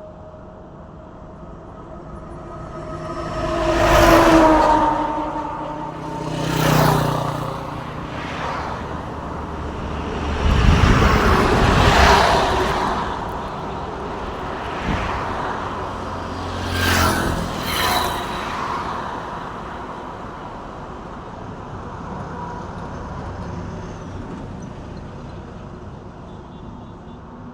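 Trucks and other road vehicles passing by close, one after another, about five in all. Each swells and fades with its pitch dropping as it goes by, and the heaviest, deepest one passes near the middle. A steady traffic hum runs between them.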